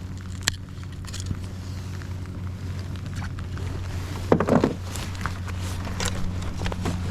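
A steady low motor hum with scattered knocks and clatter, and a louder burst of clatter about four and a half seconds in.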